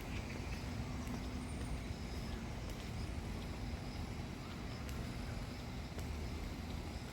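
Steady outdoor background noise dominated by a low rumble of traffic.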